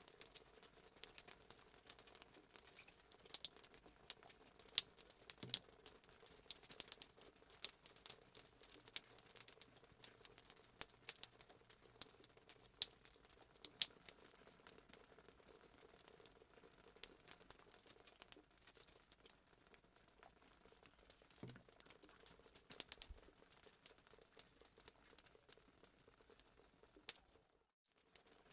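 Fireplace sound effect: a wood fire crackling with many small, irregular pops. It cuts out for a moment near the end.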